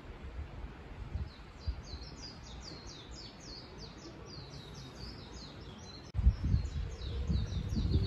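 A bird singing a long run of quick, high chirps, each falling in pitch, starting about a second in. About six seconds in, a low rumble on the microphone comes in and becomes the loudest sound.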